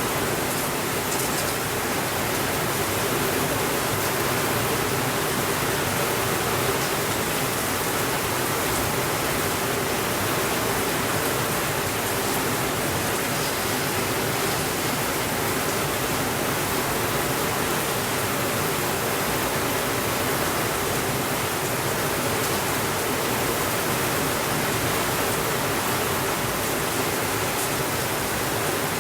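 Steady, even rainfall: a continuous hiss of rain with no thunder.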